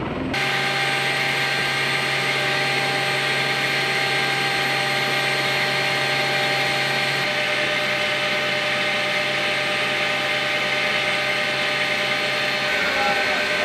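Steady turbine whine from aircraft running on the ground: an even hiss with several fixed high tones and a low hum. The low hum drops out near the end.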